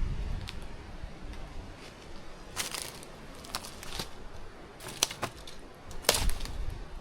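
Footsteps of someone walking over rough ground, with irregular crackles and snaps every second or so and a low rumble near the start and again about six seconds in.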